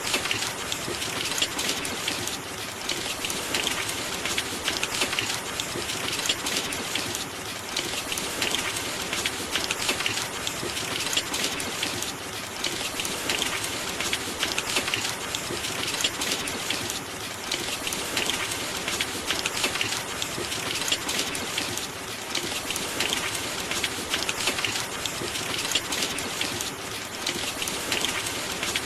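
Steady heavy rain, a dense pattering of drops that swells and eases slightly about every five seconds.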